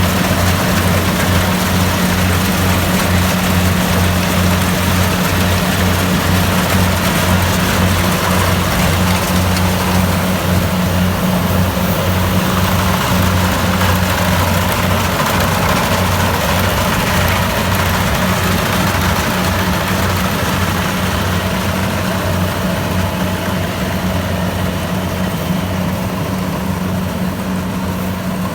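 Kubota DC-70 Plus rice combine harvester's diesel engine running steadily with an even, low hum, easing off a little near the end.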